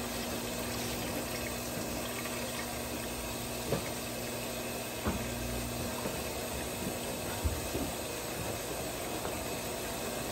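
Brastemp 17 kg top-load washing machine filling with water at the start of its wash cycle: a steady rush of water with a faint hum, and a few light knocks partway through.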